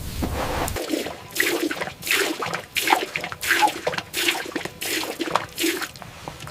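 Newborn reindeer calf drinking milk: wet sucking and sloshing sounds, about two a second. A low rumble cuts off about a second in.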